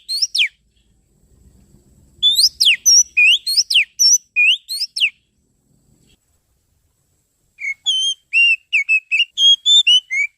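Oriental magpie-robin (kacer) song: quick, sharply rising and falling whistled notes in rapid phrases, in three bursts separated by short pauses. The last burst, near the end, is made of shorter notes.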